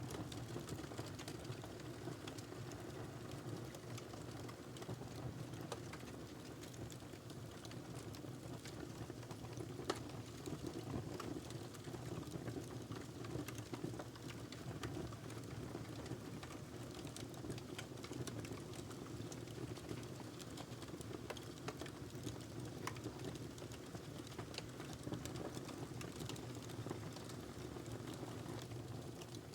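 Fire in a fireplace crackling steadily: a low rush of flame under frequent small pops and snaps, with one sharper pop about ten seconds in.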